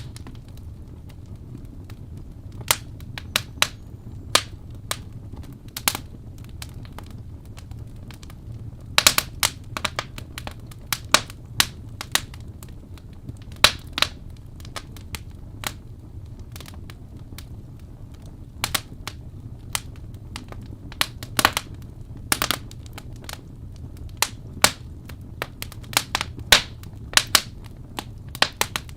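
Wood fire in a fireplace crackling, with irregular sharp pops and snaps, some in quick clusters, over a steady low rumble of the burning.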